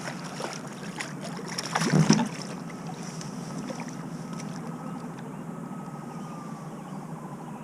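Steady hiss of wind and water around a kayak, with a few light clicks and knocks near the start and a short louder knock or handling sound about two seconds in.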